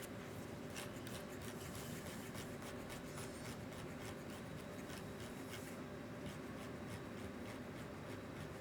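Light scratching, rubbing and scattered small clicks as RC car shock parts are handled and adjusted by hand.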